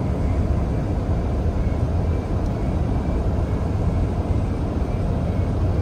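Steady low rumble of a car driving on a highway, tyre and road noise heard from inside the moving car.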